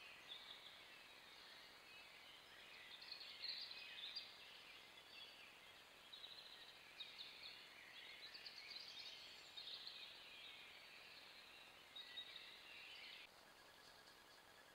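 Faint songbird singing: many short, quick chirping and warbling notes, high-pitched, over a steady hiss. It stops suddenly about a second before the end.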